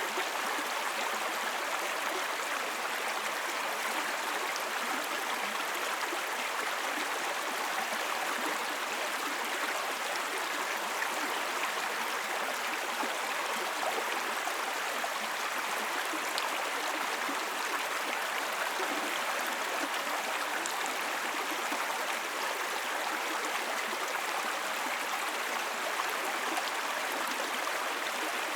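Small babbling brook: water running and gurgling over stones, a steady, even sound.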